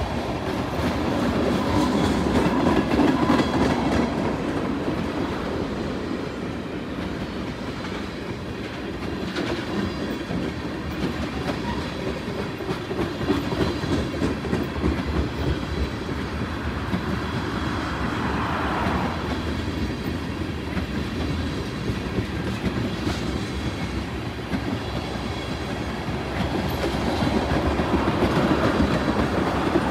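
Empty ethanol tank cars of a freight train rolling past, steel wheels clicking over the rail joints with a steady rumble.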